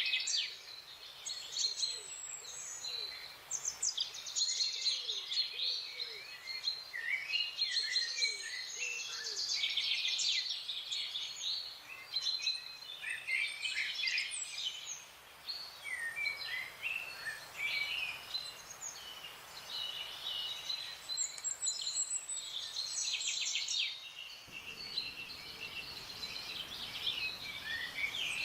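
Several songbirds chirping and singing at once, a dense, continuous chorus of quick high notes and trills. During the first several seconds a lower, short call repeats about once a second beneath it.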